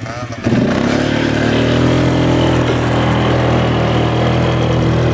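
Dirt bike engine picking up about half a second in, rising briefly in pitch, then running at steady revs as the bike is ridden.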